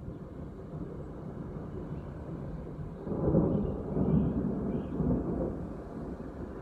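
Thunder rumbling, building about halfway through and dying back near the end.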